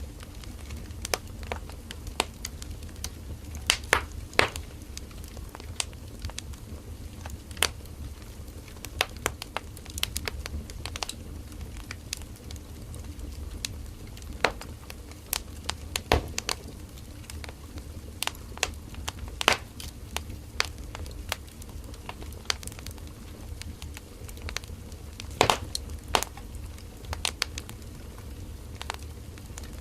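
Wood fire burning: logs crackling and popping at irregular intervals, a few sharp louder pops among them, over a low steady rumble of the flames.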